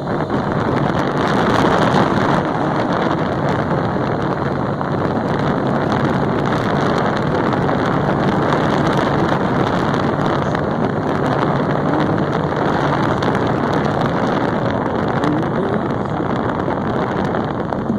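Motorcycle on the move: heavy wind rushing over the microphone on top of the engine's steady running note.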